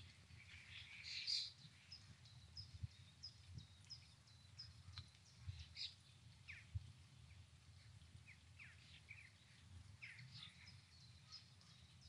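Faint small birds chirping, with many short high notes and a few quick falling whistles, the busiest flurry about a second in, over a low rumble.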